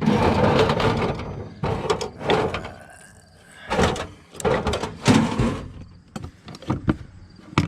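Hand tools and parts clattering and scraping as they are handled, in several bursts about a second apart, with a few sharp clicks near the end.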